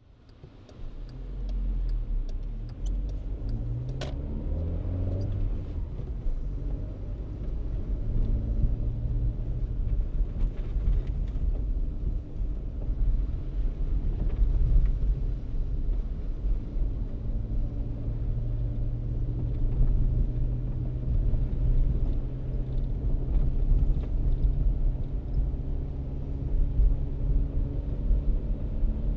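Car engine and road rumble as the car drives: the engine note rises over the first few seconds as it picks up speed, with a sharp click about four seconds in, then a steady low rumble while cruising.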